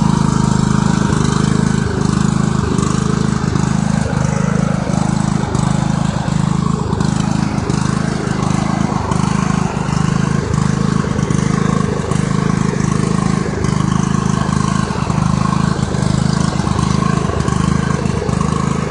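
A small tractor's engine running steadily at raised throttle while the tractor is driven.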